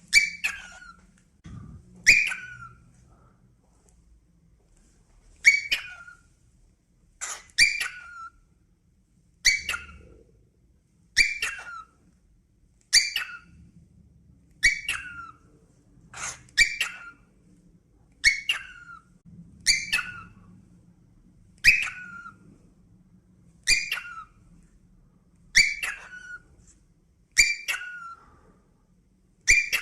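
A bird calling over and over, a short sharp call roughly every two seconds, each call dropping in pitch at its end.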